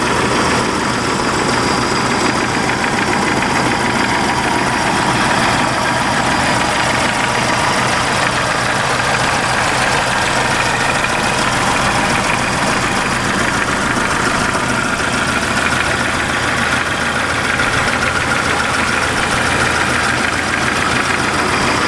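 BMW 2002's M10 four-cylinder engine idling steadily, heard close up in the open engine bay while it warms up after a recent start.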